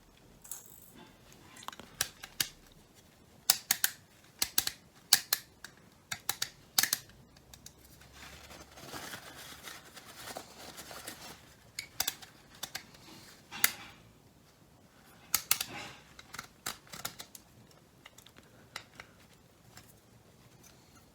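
Light switch panel of a Mercedes W204 being taken apart by hand: a series of sharp plastic clicks and snaps, with a few seconds of softer continuous rubbing noise about halfway through.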